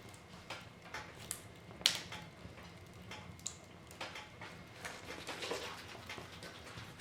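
Wood fire crackling in a fireplace: burning logs giving off irregular sharp pops and snaps, with one louder pop about two seconds in.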